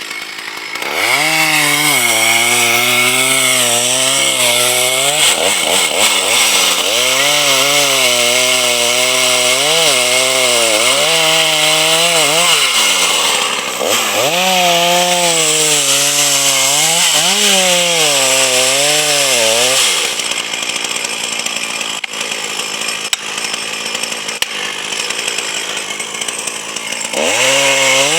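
A motor working under cutting load on timber, its pitch dipping and rising again in repeated surges for about twenty seconds. It then runs quieter and steadier for a while before picking up again near the end.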